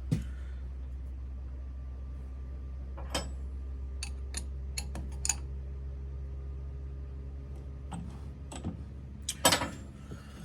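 Scattered sharp metallic clicks and clinks of tools being handled at a metal lathe, over a steady low hum, with the loudest knocks near the end.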